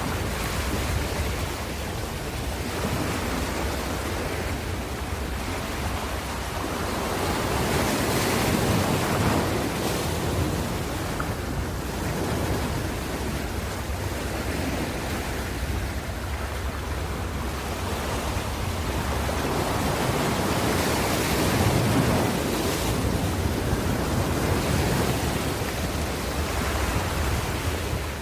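Ocean waves breaking and washing on a shore, a steady surf hiss that swells and eases every few seconds, over a low rumble with some wind on the microphone.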